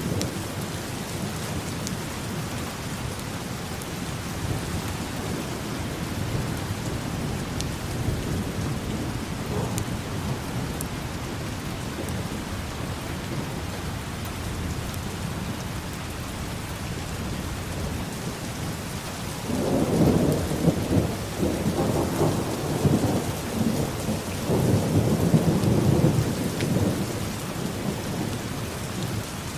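Steady rain, with a long low rumble of thunder rolling in about two-thirds of the way through and lasting several seconds.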